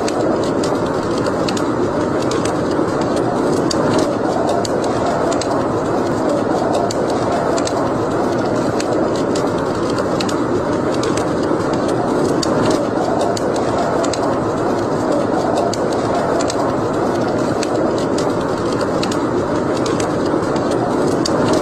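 Wood fire burning in a fireplace: a steady roar of flames with frequent sharp crackles and pops scattered irregularly throughout.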